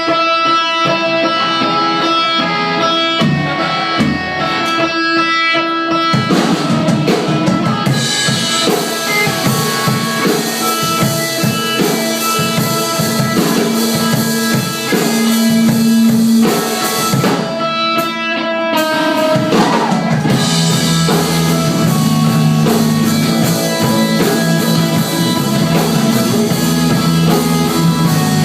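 Live rock band playing a song. A guitar plays alone at first, then drums and the full band come in about six seconds in.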